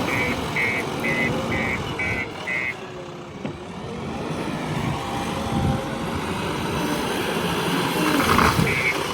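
Heavy vehicle engine running with a repeating electronic beep, about two beeps a second, that stops about two and a half seconds in and starts again near the end.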